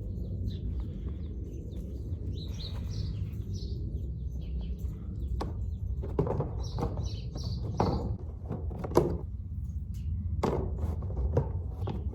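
Baby chicks peeping in two short runs of high notes, with scattered knocks and rustles in the second half over a steady low rumble.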